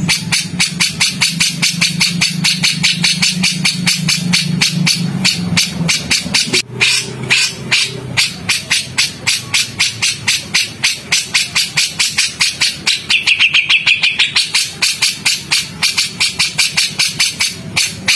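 Songbird giving a harsh rapid-fire call: short, sharp notes repeated at about five a second, with a brief break about six to seven seconds in. A low steady hum runs underneath for the first six seconds.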